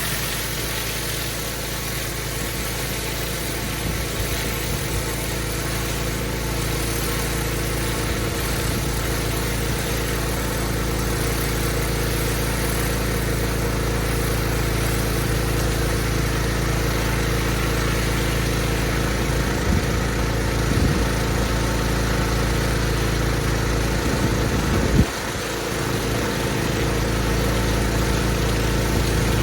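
Pressure washer's engine running steadily. A single sharp knock comes near the end, followed by a brief dip in the sound.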